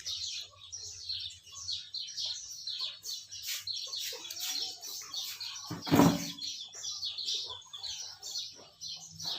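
Small birds chirping continuously in quick, high calls, with one loud thump about six seconds in.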